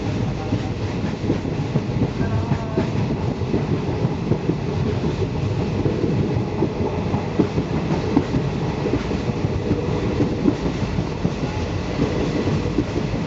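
Passenger train running at speed: a steady rumble and rattle of the carriage with a rapid, irregular clatter of the wheels over the track.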